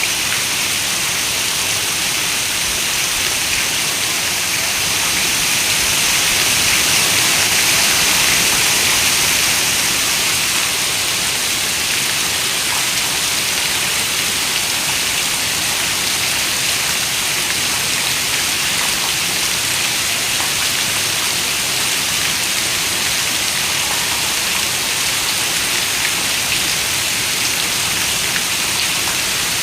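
Heavy rain falling in a steady hiss, swelling slightly about six seconds in before settling again.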